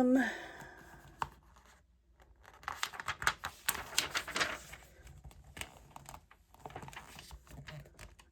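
Magazine paper rustling and crinkling as pictures are cut out of the pages: irregular crackles that start about two seconds in and run on, thinning out near the end.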